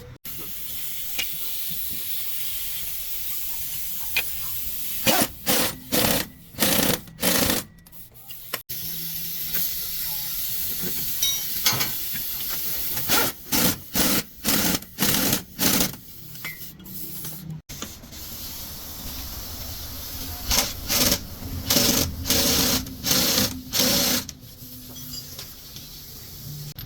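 A compressed-air tool worked in three runs of short, loud bursts, about two a second, over a steady background hiss.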